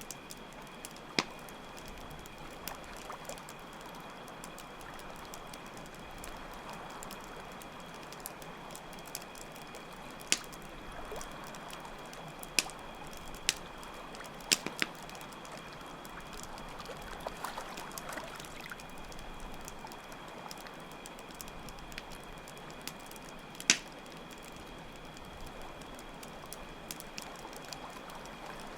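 Steady trickling water under a continuous high cricket trill, with scattered sharp pops and snaps from a crackling campfire.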